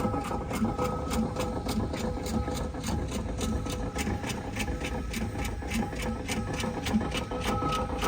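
An engine running at a steady speed, with an even, rapid clatter of about four beats a second and a few steady whining tones over it.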